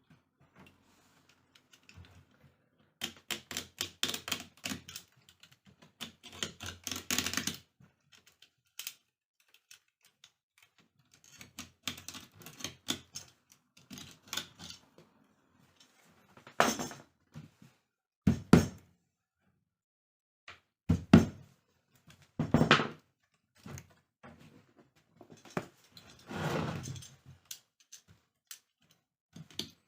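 Hand work on a rattan chair: rapid runs of light clicks and rattles, then several single sharp knocks a second or two apart, and a short scraping or rustling stretch near the end.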